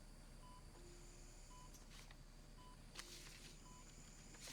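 Faint electronic beeps of a hospital patient monitor, one short tone about every second, with a soft click about three seconds in.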